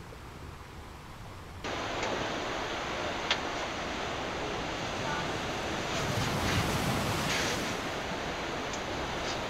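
Ocean surf: a steady rushing of breaking waves that cuts in abruptly about a second and a half in, after a fainter hiss.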